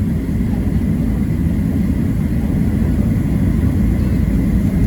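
Cabin noise of a Boeing 737-700 taxiing: a steady low rumble from its CFM56-7B engines and the rolling airframe, with a faint high steady tone above it.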